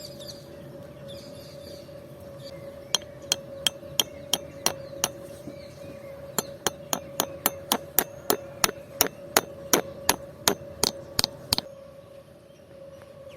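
Sharp light taps or knocks in two runs, about three a second, the second run longer, over a steady faint hum.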